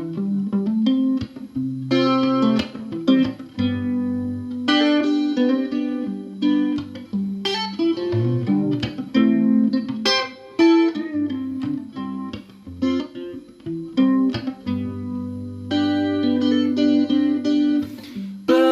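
Solo fingerstyle guitar playing an instrumental break: a run of plucked single notes over held bass notes, with no singing.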